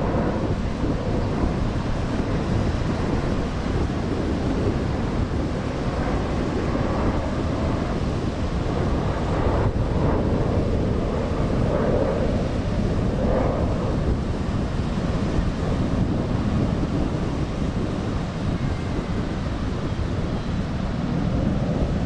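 Wind buffeting the microphone: a steady low rushing rumble with no breaks.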